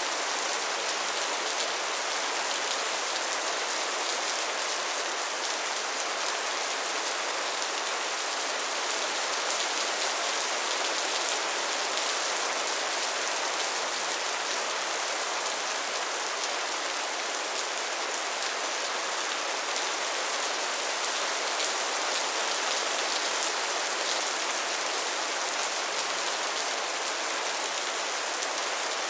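Steady, gentle rain falling, a continuous even patter of drops on a surface.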